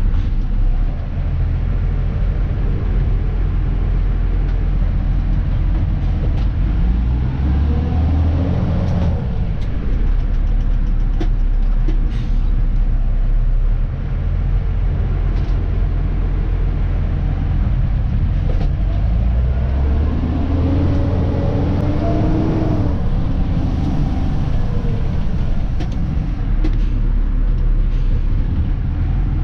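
Dennis Elite 2 refuse truck's diesel engine running steadily, heard from the cab. It revs up and back down twice, about a third of the way in and again past two-thirds, with scattered light clicks and a short hiss near the end.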